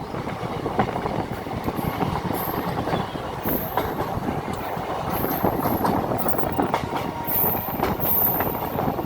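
Kanchanjangha Express passenger train running on the rails: a steady rumble of wheels on track with frequent clicks, and short high-pitched wheel squeals repeating from about a second and a half in.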